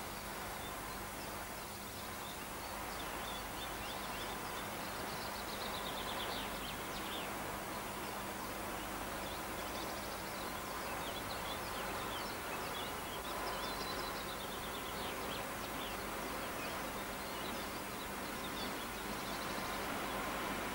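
Birds chirping in short quick runs several times over a steady hiss and a faint hum, with a distant electric train's rumble growing slightly louder near the end as it approaches.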